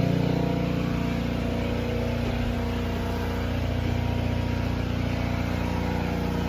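Engine of a pressure-washing unit running steadily at an even speed.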